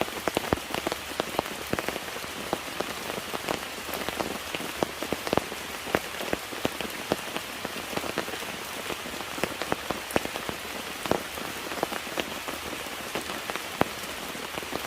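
Steady rain, with many separate drops striking a surface close by in an irregular patter.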